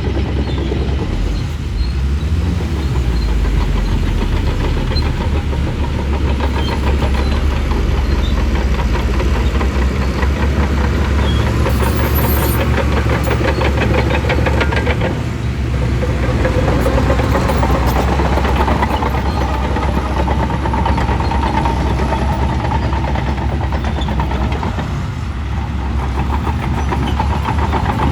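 Shantui bulldozer's diesel engine running hard under load, a heavy steady rumble with a rapid pulsing beat. The engine note rises and falls, easing off briefly twice, about halfway through and near the end.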